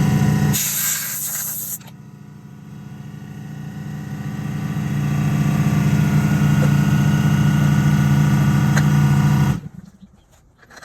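Suzuki Swish 125 scooter's single-cylinder engine idling steadily, with a brief loud hiss about half a second in. The engine cuts off suddenly near the end, leaving a few faint knocks.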